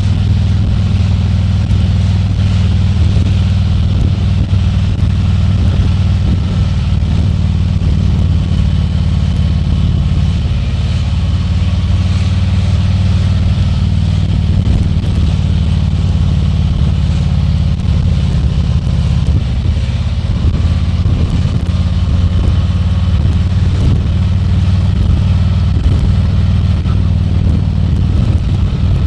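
Harley-Davidson Tri Glide Ultra trike's V-twin engine running steadily under way, its low rumble even and unbroken, with road and air noise over it.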